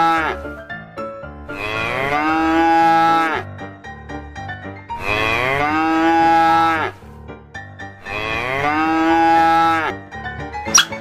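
Cow mooing: the end of one long moo, then three more long, drawn-out moos, each rising at the start and dropping off at the end, with faint background music between them.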